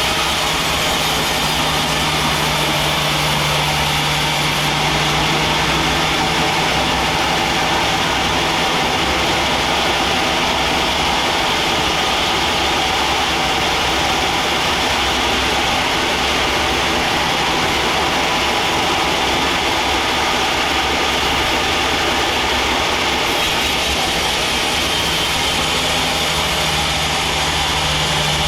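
Sawmill bandsaw machinery running steadily: a constant engine-like drone with a steady high whine above it.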